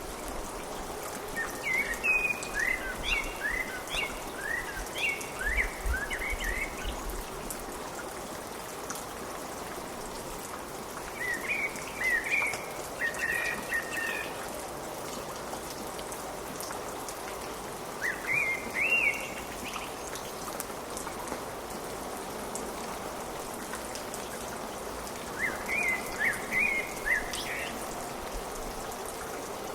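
Steady rain falling, an even hiss, with a songbird chirping in short phrases of quick up-and-down notes four times: near the start, around twelve seconds in, around eighteen seconds in, and near the end.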